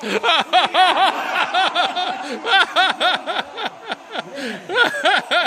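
Small electric motor and propeller of an indoor RC airplane, its pitch rising and falling in quick surges several times a second as the throttle is worked hard through aerobatic flying.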